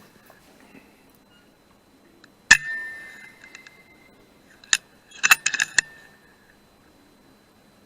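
A .177 FX Dreamline PCP air rifle fires once, a sharp crack with a short metallic ring. A couple of seconds later comes a quick run of metallic clicks as the action is worked to load the next pellet.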